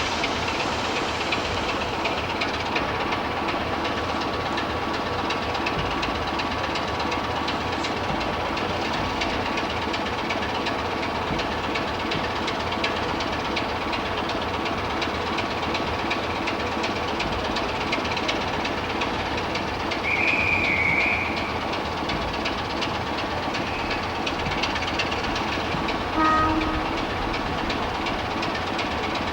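Train running steadily along the track, with the clicks and rumble of its wheels. A brief high warbling squeal comes about two thirds of the way through, and a short horn note sounds near the end.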